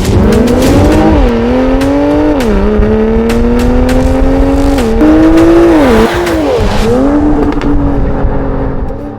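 BMW XM's twin-turbo V8 through an H.Drive titanium aftermarket exhaust, accelerating hard: the pitch climbs and drops sharply at each upshift, about four times. Sharp cracks and pops are scattered through the run, and the engine note eases off near the end.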